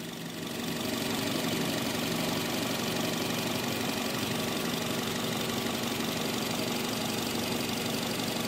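2013 Nissan X-Trail's four-cylinder engine idling steadily under the open hood, a little louder after the first second. It runs smoothly, with no knocks, which the owner takes for a very healthy engine.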